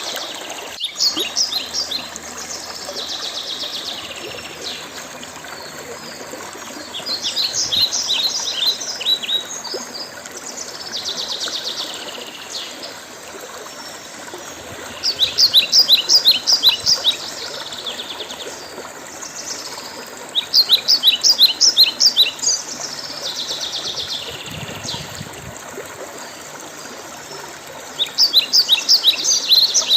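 A songbird repeating a short phrase of rapid, high notes every few seconds, with softer phrases in between. A stream runs steadily underneath.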